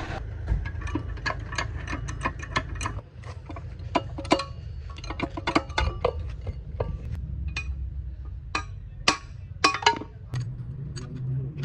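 Irregular sharp clicks and light knocks, a few with a brief metallic ring, over a low steady hum.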